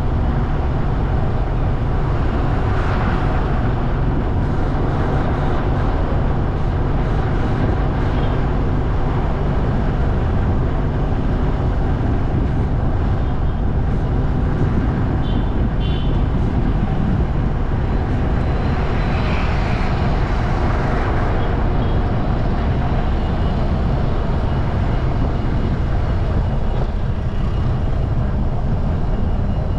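Steady riding noise from a motorcycle on the move: engine and road noise with a heavy low rumble throughout. A few short high beeps stand out now and then.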